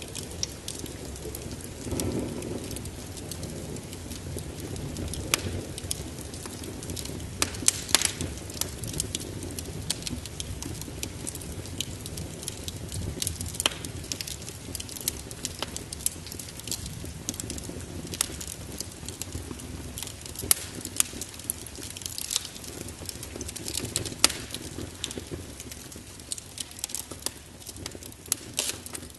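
Wood fire crackling and popping in a fireplace, with sharp irregular pops over steady rain.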